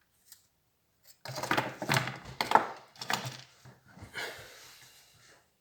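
Laptop parts being handled on a hard work surface: about a second in, a run of clattering knocks and rattles starts, loudest around the middle, then trails off into scraping before the end.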